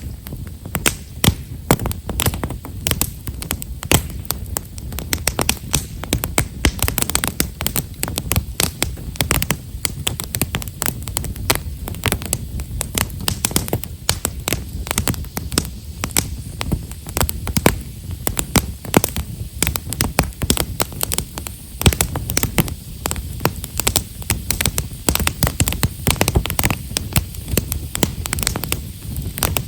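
Campfire of himeshara (Japanese stewartia) firewood crackling with many fine, closely packed pops over a low, steady rumble of the flames.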